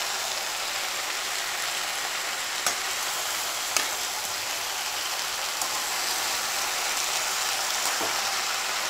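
Chopped vegetables sizzling steadily in hot oil in a pan while a metal spatula stirs them, with three sharp clicks of the spatula against the pan.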